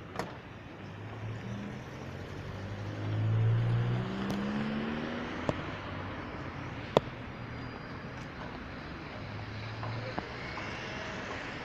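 Street traffic: a motor vehicle's engine speeds up and rises in pitch about three to five seconds in, over steady road noise, with a few sharp clicks.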